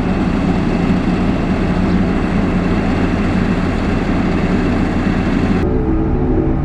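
Heavy construction machine engine running steadily. Near the end it cuts off suddenly into steady droning music.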